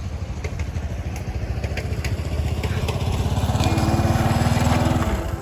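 A motor vehicle passing close by: its engine rumble grows louder over a few seconds, then its pitch drops and it fades about five seconds in.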